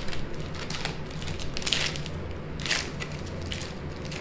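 Trading-card pack wrapper being torn open and crinkled by hand, a handful of short crackly rustles about a second apart, over a low steady hum.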